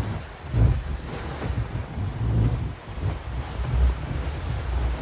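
Wind buffeting the microphone: an uneven low rumble that swells and drops every second or so.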